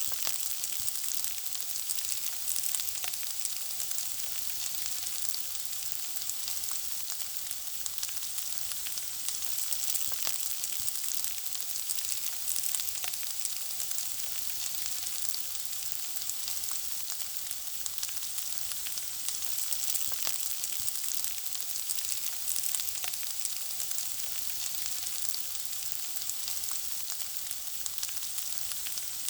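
Food frying in hot oil: a steady high sizzle with a constant scatter of small crackles and pops.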